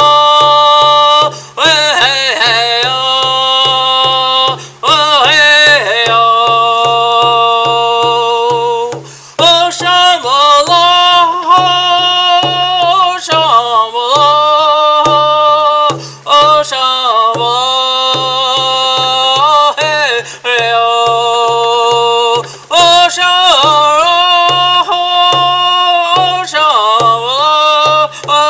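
A man singing a chant-like song with long held notes that slide between pitches, without recognisable words, over a steady low drumbeat at about two beats a second.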